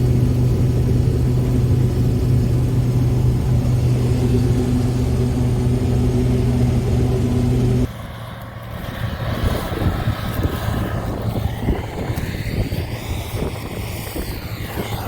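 Engine running at a steady pitch, then about eight seconds in it cuts off abruptly and gives way to a quieter, uneven rumble with sweeping high tones.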